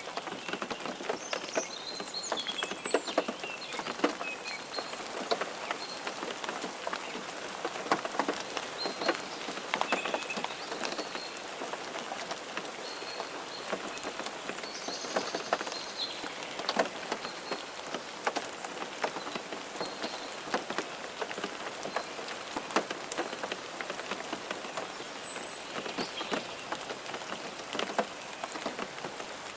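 Rain pattering steadily on a car, a dense run of separate drops ticking against the glass and body.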